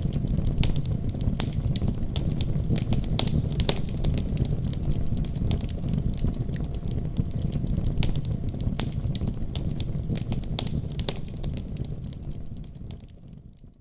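Wood fire burning in a fireplace: a steady low rumble of flames with frequent, irregular sharp crackles and pops. The sound fades out in the last second or so.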